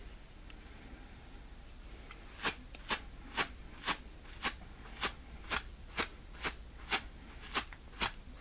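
Wire-toothed cat brush raked over fabric in short strokes, about two a second, starting a couple of seconds in; it brushes up the pile and pulls off pills.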